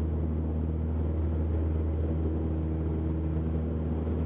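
Cessna 172's piston engine and propeller running steadily at full power, a constant drone heard inside the cabin during the takeoff roll of a touch-and-go.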